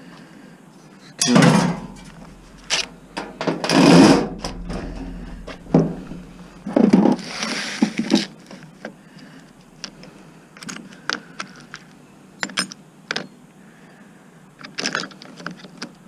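Rummaging and clattering through tools and metal parts: three loud knocks and scrapes in the first half, then lighter clicks and taps, as someone hunts for a Robertson (square-head) screwdriver bit.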